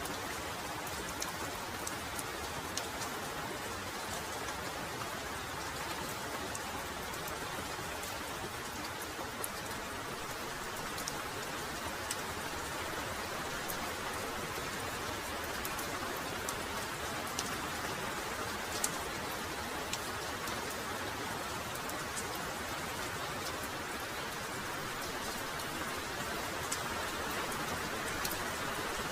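Heavy rain falling steadily, an even hiss of downpour with many sharp drop ticks scattered through it.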